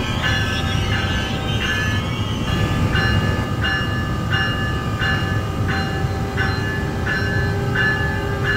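Passenger train running past on the rails: a steady heavy rumble with a whining tone that pulses about twice a second, and a second steady tone coming in past the middle.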